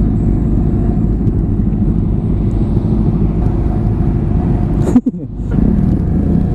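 Honda Grom's 125 cc single-cylinder engine running steadily while riding, mixed with wind rumble on the microphone. About five seconds in, the sound slides briefly, then drops out for a moment before coming back.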